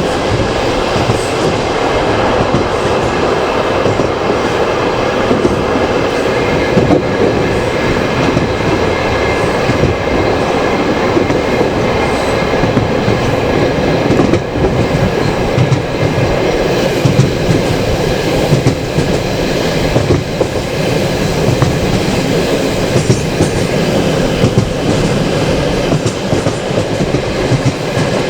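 Moving passenger train carriage heard from its window: a steady rolling rumble of wheels on the rails, with scattered louder clicks and knocks.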